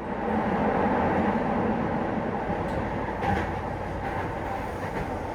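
Keihan 800 series electric train running along the line: a steady rumble of wheels and traction motors with a low hum, loudest about a second in and easing slightly afterwards.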